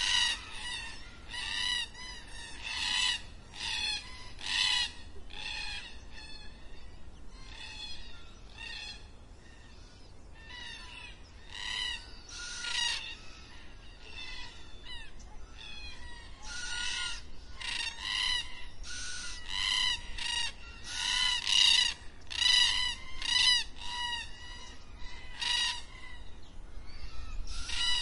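Birds calling in a long run of short, clear, repeated notes, one or two a second. The calls thin out for a few seconds around ten seconds in and then come thicker again.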